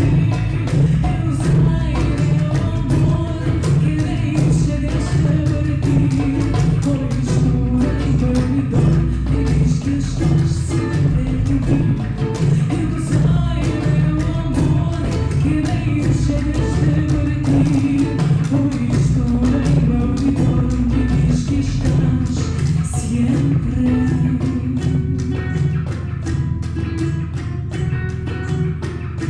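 Live acoustic band song: a voice singing over strummed ukulele, with a cajon beating a steady rhythm.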